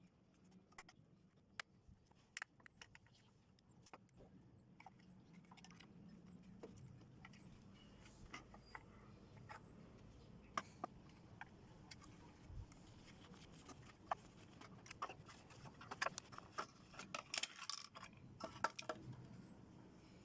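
Faint clinks and clicks of small metal parts being handled during the dismantling of a scrap microwave, scattered at first and coming in quicker clusters near the end.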